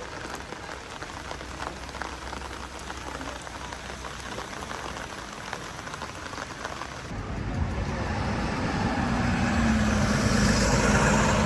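A crackling, pattering noise, then from about seven seconds in a motor sound with a steady hum that grows louder, like a vehicle approaching.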